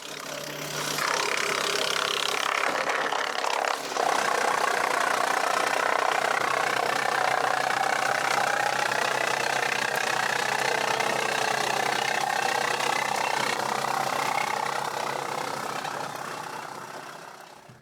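Engine running steadily, fading in at the start and fading out near the end, with a faint tone slowly rising in pitch through the middle.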